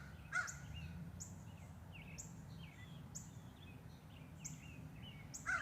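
Small songbirds chirping with short, high call notes repeated every half second or so over a steady low background hum; a crow caws faintly about half a second in and again near the end.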